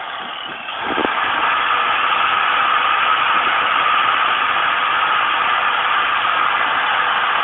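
Angle grinder fitted with a flap disc running against steel, polishing leftover burrs off a weld; a steady high whine that builds about a second in and holds.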